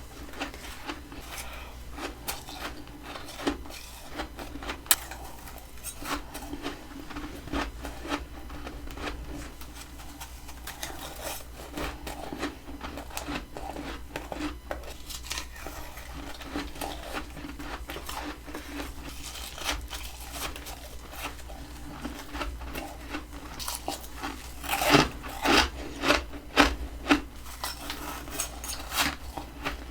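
Close-miked biting and chewing of soft freezer frost: irregular crisp crunches and crackles throughout, with a run of louder crunching bites about three-quarters of the way through.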